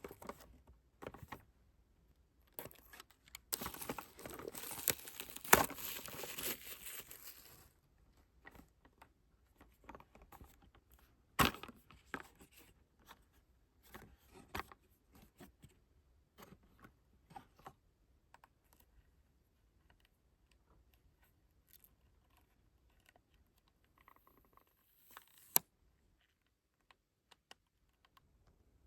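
Album packaging being unwrapped by hand: a few seconds of plastic wrap tearing and crinkling, followed by scattered clicks, taps and rustles as the packaging is handled, with a sharp click about eleven seconds in.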